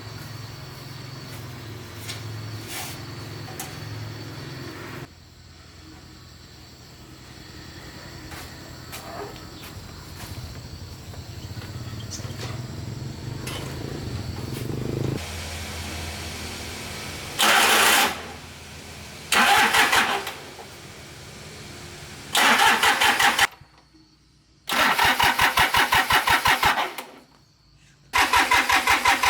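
A small engine being cranked in five short bursts of rapid pulsing, the later ones longer, without settling into a steady run: repeated attempts to start an engine that won't start. A low steady hum is heard before them and stops after about five seconds.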